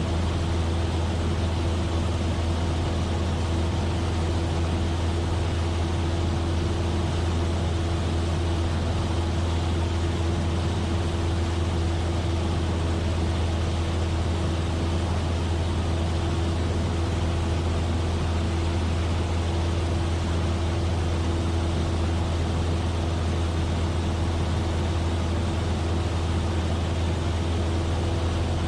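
Cessna 172F's six-cylinder engine and propeller droning steadily in cruising flight, with even airflow noise and no change in power.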